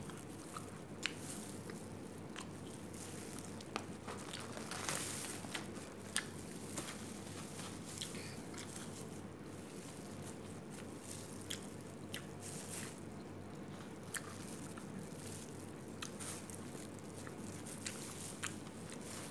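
A person chewing food with the mouth closed, with scattered short, sharp mouth clicks and smacks every second or two.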